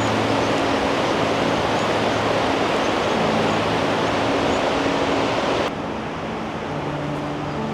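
Rushing water of a fast mountain river, a steady loud hiss and roar. It drops abruptly a little quieter about six seconds in.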